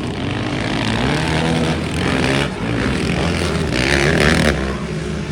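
Racing vehicle engines running hard on the track, revving up and down as they race laps. There is a short burst of noise about four seconds in.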